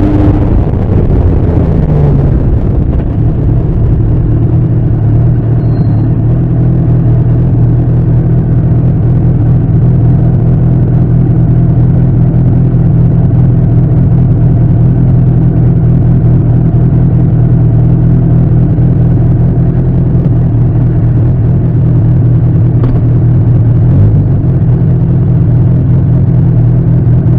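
Bimota SB3 motorcycle's Suzuki GS1000 air-cooled inline-four engine and exhaust under way at steady cruising speed. The engine note drops briefly about two seconds in, then holds an even pitch.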